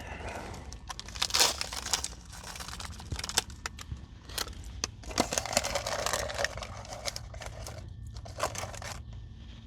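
Crinkling of a Nature Valley granola bar's plastic wrapper as it is handled and opened: a dense run of sharp crackles, heaviest about a second in and again around the middle, thinning out near the end.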